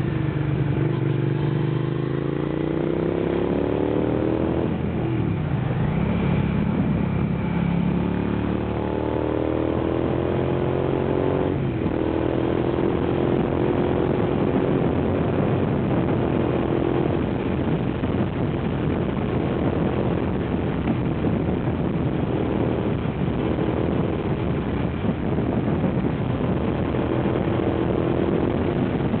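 Suzuki SV650's V-twin engine heard from the rider's seat, pulling up through the gears. The pitch rises, breaks briefly for shifts about five and twelve seconds in, then holds fairly steady at cruising speed, with a constant rush of wind noise over it.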